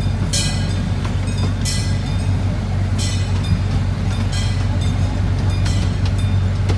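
Miniature railroad train rolling along under a steady low hum, with sharp rattling clacks from the wheels and open wooden cars about every second and a half.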